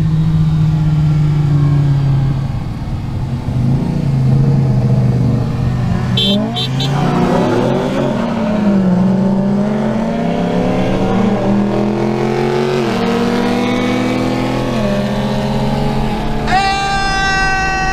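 Car engine accelerating hard through the gears: the pitch climbs, then drops back at each upshift, four or five times. A steady, higher-pitched tone comes in near the end.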